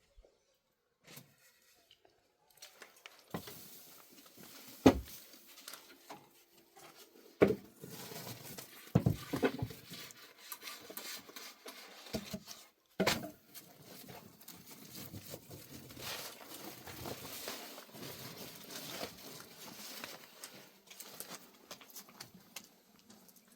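Irregular rustling and handling noise, with a few sharp knocks scattered through it.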